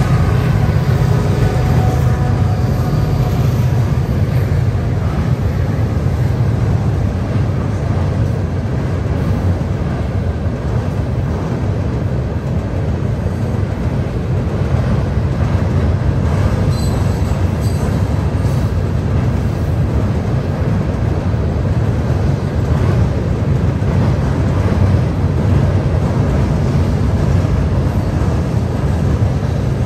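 Florida East Coast Railway freight train rolling across a steel drawbridge: a steady, loud low rumble of freight cars passing, without letup, with a little locomotive engine sound fading away in the first seconds.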